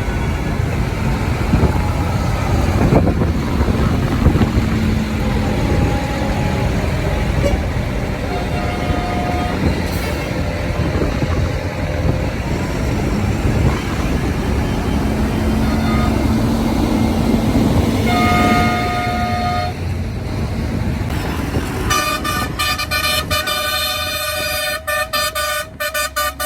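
Tractor engines running as a convoy goes by, with short horn toots about a third and two thirds of the way through and a long, steady horn blast near the end.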